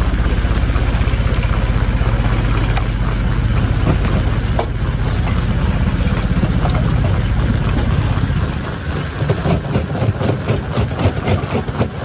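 Stone crusher machine running with a steady low engine drone. About eight seconds in, the drone drops away and uneven clattering and knocking take over.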